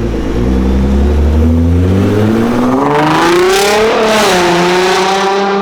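Nissan GT-R R35's twin-turbo VR38DETT V6 running through a decat IPE exhaust, its note climbing steadily for about four seconds as it accelerates, peaking, then dropping back and holding a steady note.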